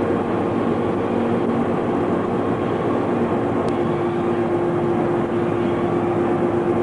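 Steady machinery noise: a constant rush of air with a low, even hum and a steady tone running through it.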